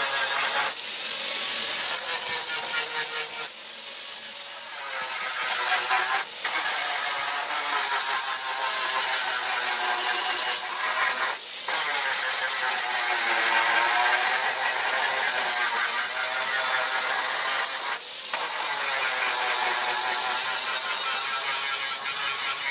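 Electric grinder grinding steel, its motor pitch sagging each time it is pressed into the metal and climbing back as the pressure eases, with a steady hiss of grinding over it. A few brief breaks occur where the tool lifts off.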